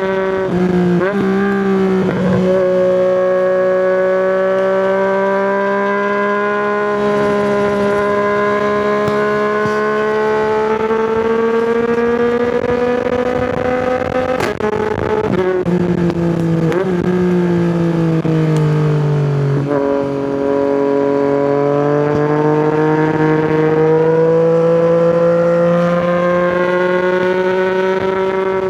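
Yamaha MT-09's three-cylinder engine through an Akrapovic exhaust, running under way. Its pitch glides slowly up and down, with a few sudden steps in pitch about a second in, around the middle and two-thirds of the way through as gears are changed.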